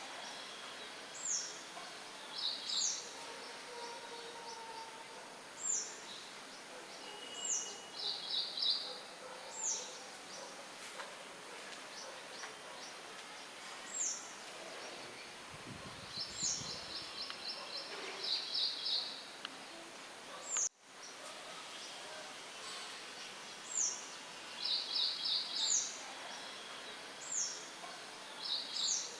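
Songbirds chirping over a steady hiss of light wind through leaves: short high chirps that slide downward and quick rattling trills, repeating every second or two. About two-thirds of the way through, the sound drops out for an instant.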